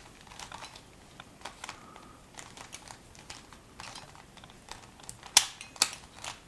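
Plastic clicks and clacks of a Shengshou Phoenix twisty puzzle cube being turned layer by layer, irregular, with two louder snaps near the end.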